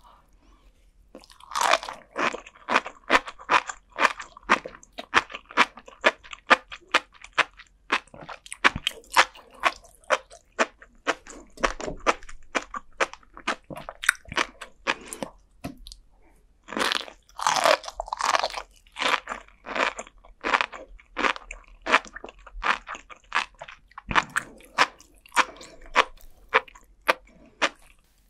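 Close-miked chewing of flying fish roe (tobiko) and sea grapes: the tiny eggs and grape-like beads burst between the teeth as dense, rapid crackling pops. The pops come in bouts, with short pauses about a second in, near the middle and a few seconds before the end.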